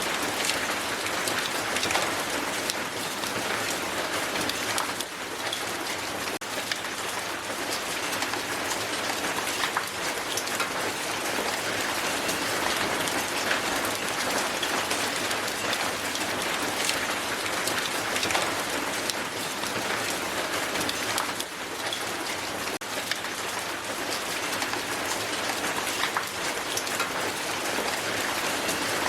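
Heavy hail falling steadily on the ground: a dense, even rush of countless small ticking impacts.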